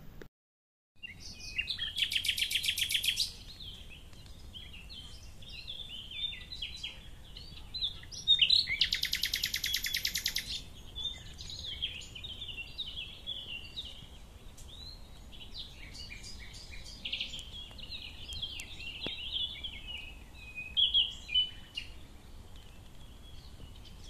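Birds singing, with many short chirps and phrases overlapping. Two loud, fast trills of about two seconds each stand out, one about two seconds in and one about nine seconds in.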